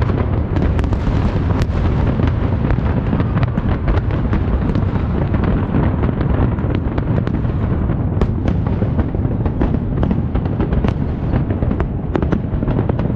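Large fireworks display: a continuous rumble of shell bursts with many sharp cracks and pops throughout.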